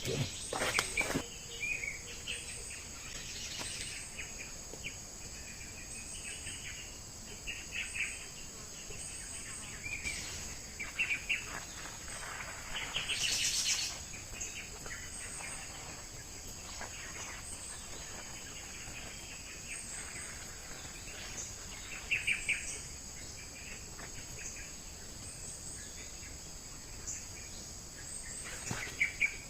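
Insects droning steadily on a high pitch, with birds chirping now and then. A few short louder noises come through, the loudest about halfway.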